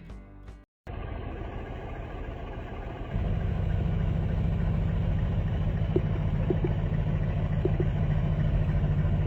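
A car engine running with a steady low rumble, getting louder about three seconds in.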